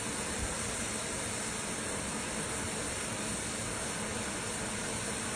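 Steady hiss of steam from the steam locomotive LMS 16440, with no exhaust beats or other distinct sounds.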